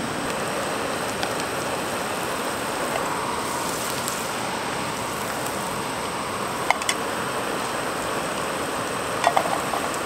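Gnocchi frying in butter in a small pan, a steady sizzle, with a few light clicks about two-thirds of the way in and near the end.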